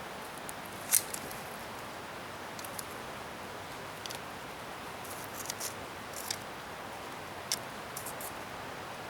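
Wood fire burning with a steady hiss and scattered sharp crackles and pops from the scrap wood, the loudest pop about a second in.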